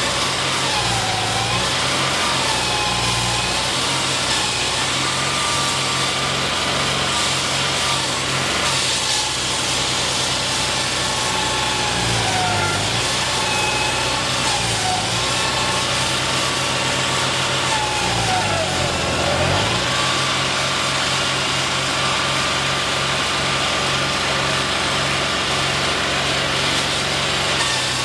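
Engine running steadily, its pitch dipping and climbing back several times, most deeply about two-thirds of the way through.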